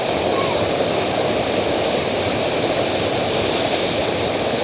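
River water rushing steadily, a loud, even noise.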